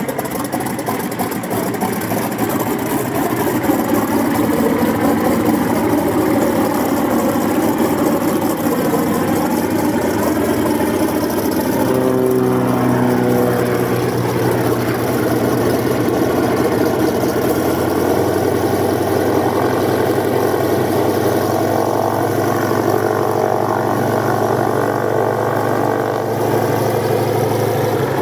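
Spartan 7W Executive's Pratt & Whitney R-985 Wasp Junior nine-cylinder radial engine running at idle shortly after start. The note wavers for the first half, then settles into a steady low drone.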